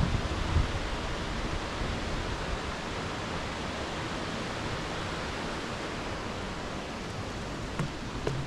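Steady, even rush of a waterfall, Omanawa Falls, with a few low thumps near the start and near the end.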